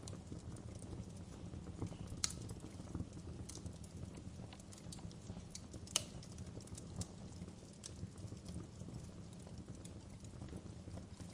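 Wood fire crackling: irregular snaps and pops over a low, steady rumble of burning, with two sharper pops about two and six seconds in.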